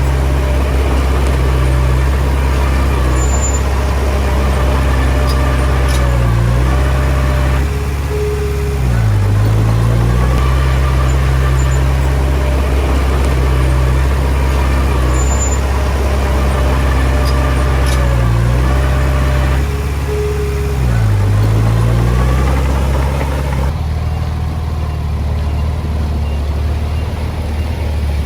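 Heavy-equipment diesel engine running hard, with its pitch sagging briefly twice in each cycle of about twelve seconds as it takes and sheds load. It eases off near the end.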